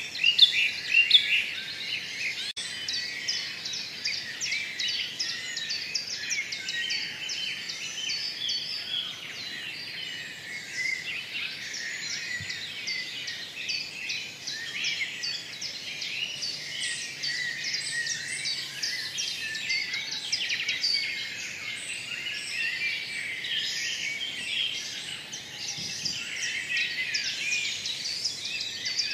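Many birds chirping and singing together in a dense, unbroken chorus of short, high notes.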